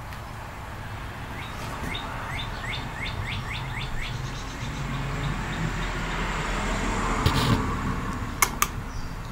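A bird chirping: a run of about ten quick, high chirps, a few a second. A rush of noise then swells to a peak about seven seconds in and eases off, followed by two sharp clicks near the end.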